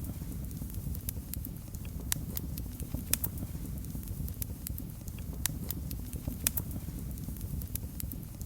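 Wood fire crackling: irregular sharp pops and snaps, several close together at times, over a steady low rumble of the flames.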